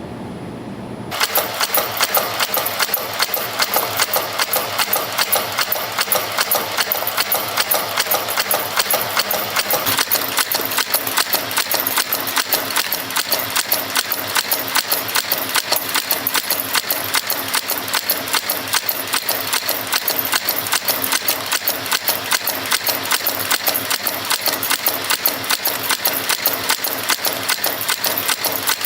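CNC strip and wire forming machine running in production, a fast, steady mechanical clatter of repeated sharp clicks at about three strokes a second as it forms spring clips from strip. The clatter starts about a second in.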